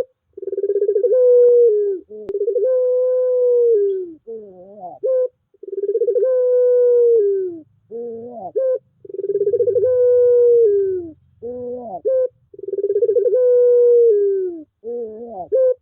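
Puter pelung (Barbary dove) cooing over and over. Each phrase is a long drawn-out coo that falls away at the end, followed by a few short rising and falling notes, and the pattern repeats about every three and a half seconds.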